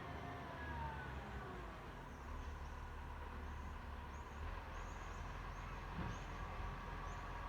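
Garbage truck's engine running with a steady low rumble, and a whine that falls in pitch during the first second or so.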